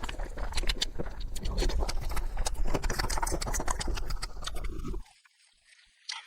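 Close-miked eating sounds of someone chewing noodles: a dense run of short clicks and smacks that cuts off abruptly about five seconds in, followed by a second of near silence.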